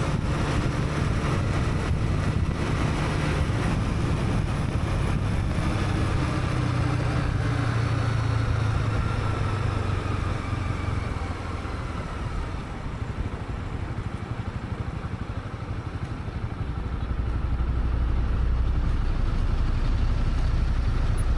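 Honda CB300R's single-cylinder engine running under a helmet camera, with road and wind noise. Its pitch falls as the bike slows through the middle, it goes quieter for a few seconds, then grows louder again near the end.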